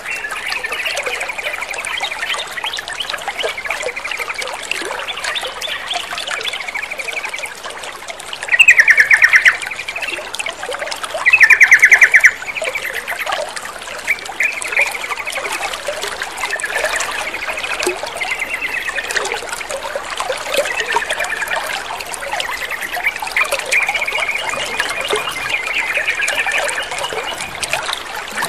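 Sooty-headed bulbuls (trucukan) chattering and singing continuously over trickling water. Two much louder, rapid rattling calls come about nine and twelve seconds in.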